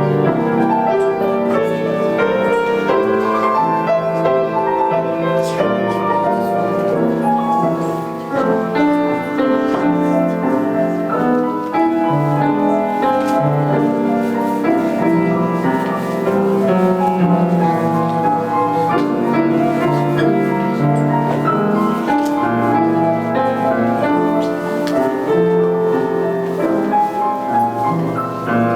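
Solo piano playing a classical-style piece, with a continuous run of notes.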